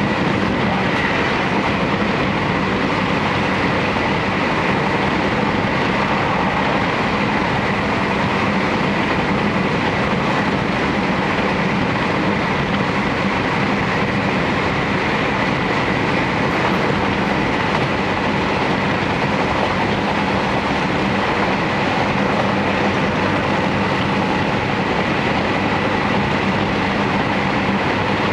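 Inside a JR Hokkaido Series 711 electric multiple unit running along the line: steady running and rolling noise of the car, with a faint steady whine.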